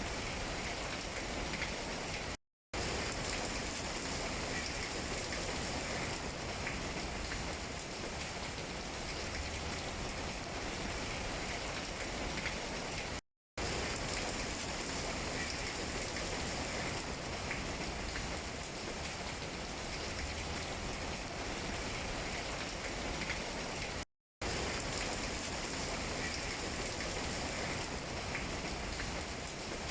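Steady rain falling on tree leaves, with scattered drop taps. The sound cuts out completely for a moment three times, about eleven seconds apart.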